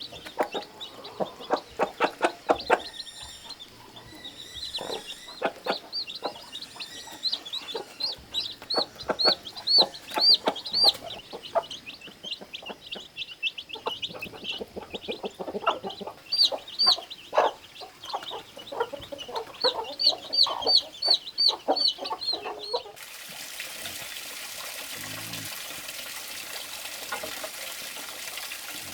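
Newly hatched chicks peeping in quick high cheeps, with a hen clucking lower beneath them. About six seconds before the end this cuts off abruptly to a steady trickle of running water.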